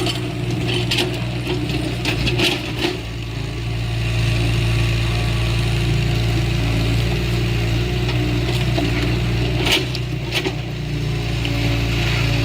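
Heavy earthmoving machine's diesel engine running steadily, with a few sharp cracks of wood breaking as trees are cleared.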